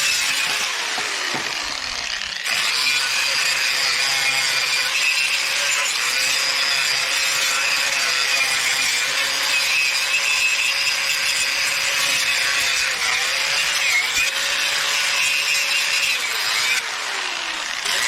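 Handheld electric power tool running steadily with a high whine, its pitch sagging briefly now and then as it is pressed into the work.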